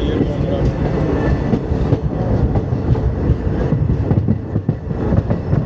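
Passenger train coach running on the track: a steady low rumble with the wheels clacking over rail joints.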